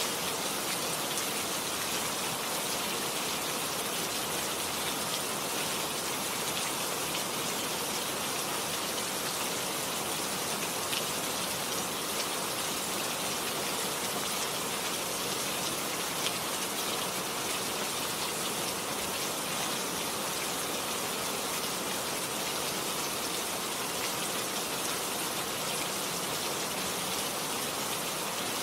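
Steady rain falling, an even hiss of many drops with a few faint ticks now and then.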